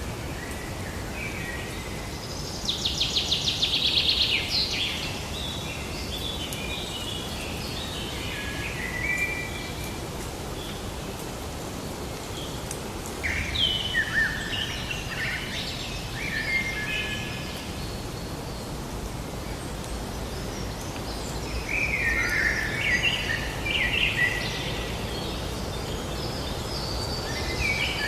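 A songbird singing in separate phrases of quick, varied chirps and trills, about three phrases with pauses between, the first opening with a fast buzzy trill. A steady outdoor hiss sits underneath.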